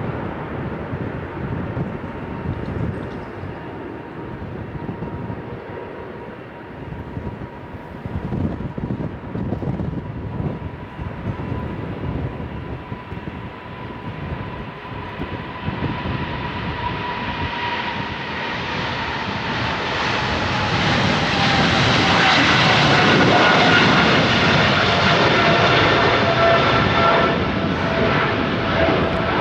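Jet airliner passing: its engine whine swells to its loudest about two-thirds of the way through, then falls in pitch as it goes by. Gusty wind buffets the microphone throughout.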